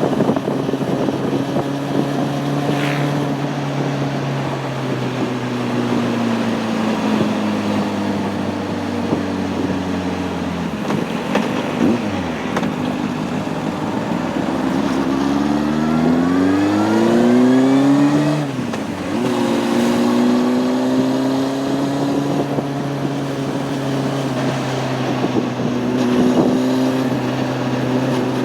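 Honda CB600F Hornet's inline-four engine heard while riding: its pitch falls as the bike slows, then climbs steeply under acceleration. About two-thirds of the way through it drops sharply at a gear change and settles to a steady cruise.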